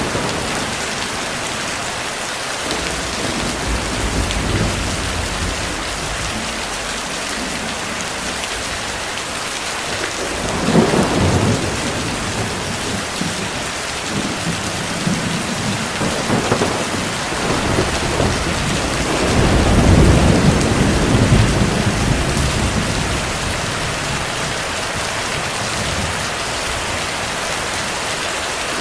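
Heavy rain falling steadily, with rolls of distant thunder: one about ten seconds in, a shorter one around sixteen seconds, and a longer, louder rumble about twenty seconds in.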